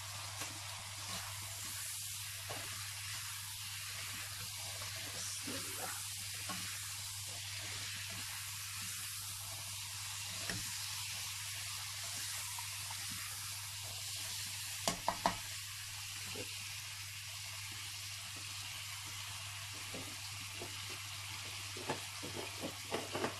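Chickpeas and chopped tomatoes frying in oil in a pan, a steady sizzle, with a few short knocks about halfway through and near the end.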